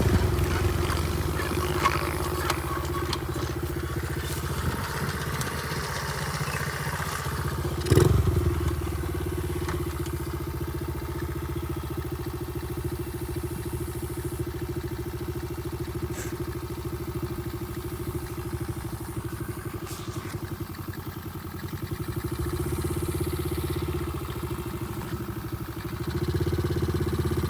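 Small pit bike engine running steadily, easing off a little about twenty-one seconds in and picking up again near the end, with one sharp knock about eight seconds in.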